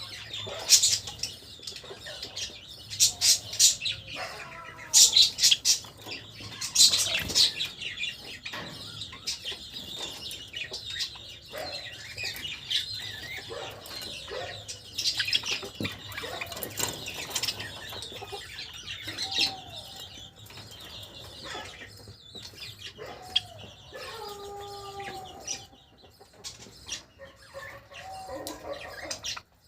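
Java sparrows chirping and calling: a busy run of short, high chirps, with some lower gliding calls in the second half.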